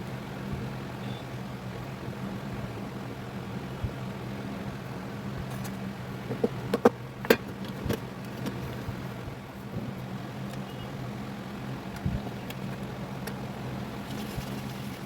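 Steady low electrical hum with a cluster of sharp clicks and knocks about six to seven and a half seconds in, and one more knock near the end.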